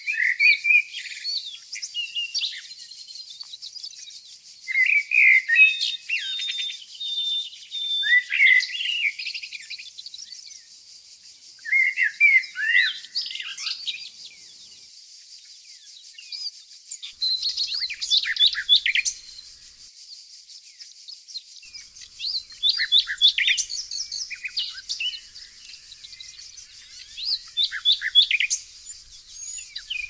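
Songbirds singing in short bursts of chirps, trills and quick repeated notes, with a phrase every few seconds, over a steady faint high hiss.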